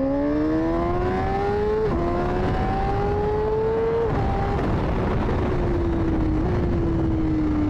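2024 Honda CBR600RR inline-four, fitted with an MIVV Suono slip-on exhaust, accelerating hard. The engine pitch climbs through two quick upshifts, about two and four seconds in, then falls steadily as the bike rolls off and slows.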